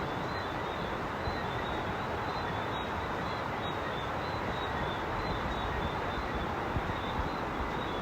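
Frogs calling in short, high chirps that repeat every second or so over a steady hiss of rain falling on a sheet-metal roof.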